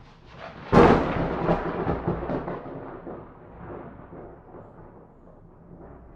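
Thunder: a faint rumble builds, a sharp crack hits about a second in, then the rumble rolls on and slowly fades.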